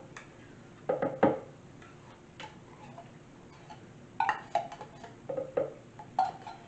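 Clinks and knocks of small cans of coconut cream being emptied into a blender jar: a handful of short knocks, a few with a brief ringing tone, in small clusters.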